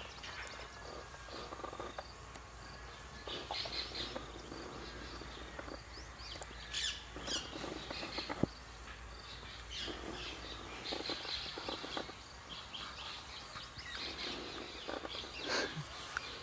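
Birds chirping on and off, with a single sharp click about eight and a half seconds in.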